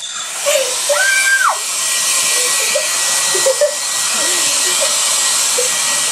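Handheld hair dryer switched on and running steadily: a loud, even rush of air with a thin, steady motor whine.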